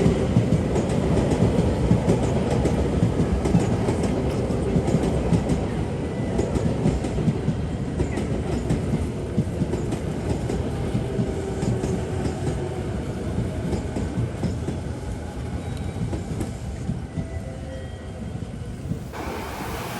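Train wheels running over the rails with a clickety-clack rumble, slowly getting quieter as the train moves on.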